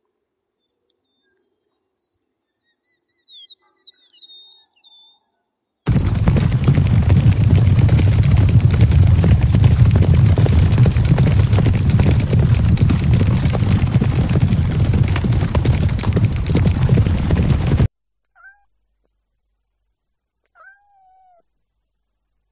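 Faint bird chirps, then a galloping herd of horses: a loud, dense rumble of hoofbeats for about twelve seconds that cuts off suddenly. Then a kitten meows twice.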